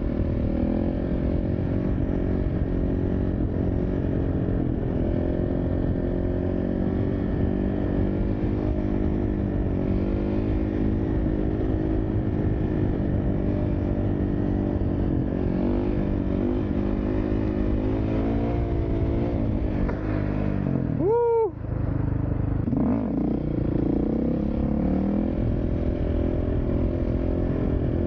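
Dirt bike engine running continuously, its note rising and falling with the throttle. About two-thirds of the way through comes one sharp, brief rev that rises and falls, followed by a short drop in level.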